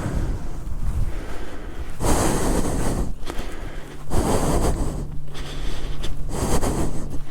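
Wind buffeting the microphone, with three heavy breathing surges about two seconds apart, over a low steady motorcycle engine hum that settles into an even tone about halfway through.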